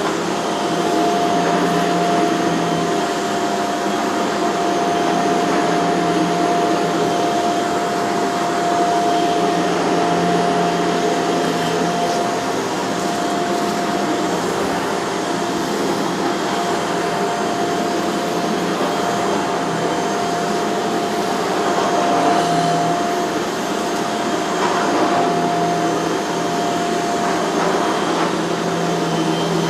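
Shark CZ351 pet canister vacuum running on a carpeted rug, a steady motor whine over the airflow rush, with a lower hum that comes and goes as the power head is pushed back and forth.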